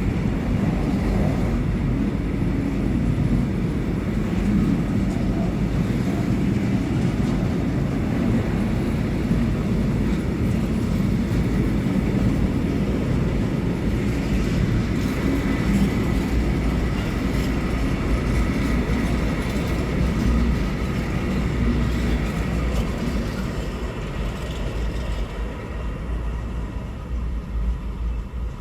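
Train passing on the line, its wheels and wagons rumbling steadily, then fading away near the end.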